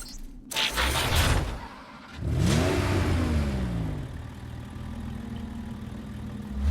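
Animated action sound effects: a short noisy burst, then an engine-like sound whose pitch sweeps up and falls away, settling into a steady low hum.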